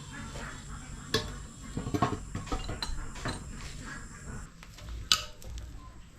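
Metal hand tools and engine parts clinking and knocking against each other as they are handled, with a few sharper clanks about a second, two seconds and five seconds in.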